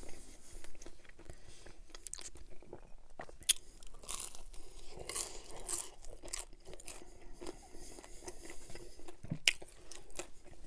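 Close-miked chewing and biting of pan-crust pizza: moist mouth sounds broken by crisp crunches of crust. Two crunches stand out as louder, about three and a half and nine and a half seconds in.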